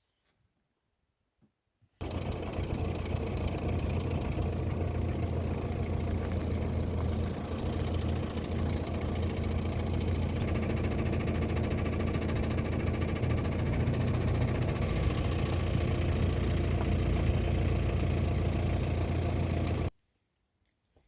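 Safari vehicle's engine running steadily with a low hum, starting abruptly about two seconds in and cutting off abruptly near the end.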